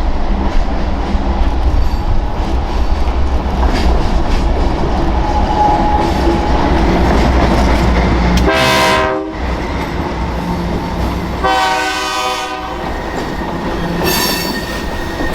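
Diesel locomotive rumbling past close by, then sounding its air horn: a short blast falling in pitch about halfway through, a longer blast a few seconds later, and another starting near the end.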